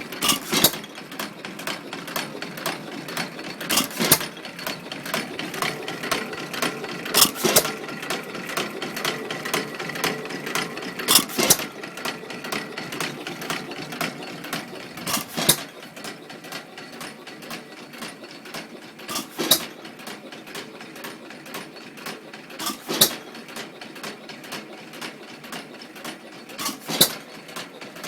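1912 Stover Model YA (Pilter-badged) vertical open-crank hit-and-miss engine idling: a sharp firing stroke about every four seconds, with a fast mechanical clatter from the exposed crank and valve gear while it coasts between fires.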